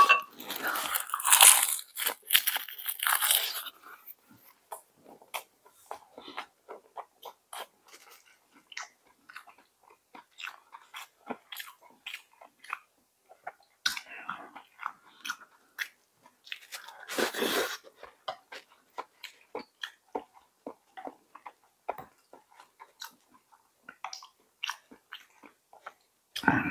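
A person eating: a few loud crunching bites in the first few seconds, then steady quiet chewing with short mouth clicks, and another loud crunchy bite about seventeen seconds in.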